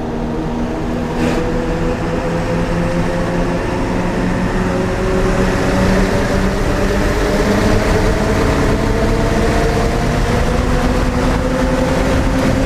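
Ford Super Duty's 7.3 L Power Stroke turbo-diesel V8 running through a 4-inch straight-pipe exhaust while driving, its pitch climbing slowly as it gains speed, with tyre noise and an audible turbo.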